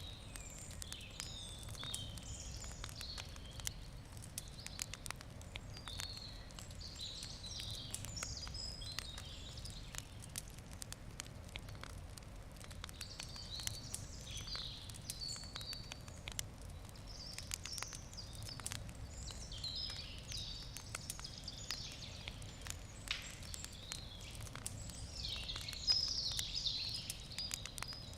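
Wood campfire crackling, with frequent small sharp pops and snaps. Birds chirp and sing throughout over a low steady background hum, busiest near the end.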